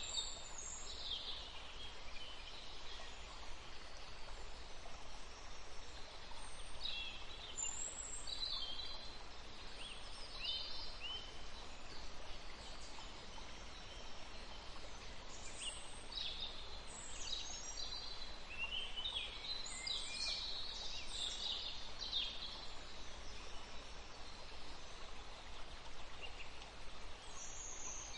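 Scattered short bird chirps and trills over a steady background hiss.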